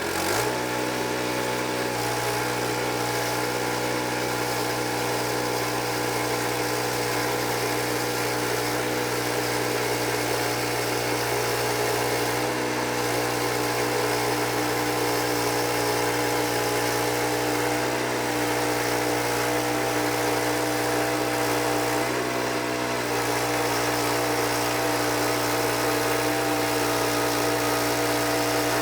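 Engine speeding up quickly at the start, then running steadily at high speed with an even, pitched drone.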